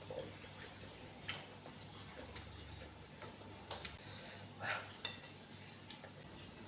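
Eating sounds from a bowl of noodles: a utensil clicking against the bowl about five separate times, with one short noisy sound about two-thirds of the way through.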